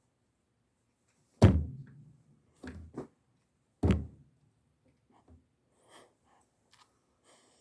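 Three dull thumps, the first about a second and a half in and the loudest, the others about a second and two and a half seconds after it, followed by a few faint clicks and rustles.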